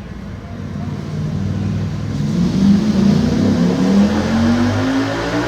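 Ducati V4 SP's V4 engine, breathing through an Arrow titanium exhaust, accelerating under load on a chassis dyno: the revs climb steadily from about a second in and the engine gets louder as the pull builds.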